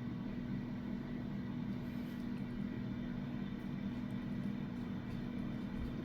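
Steady low hum with a constant pitch, like a running fan or appliance, unchanging throughout.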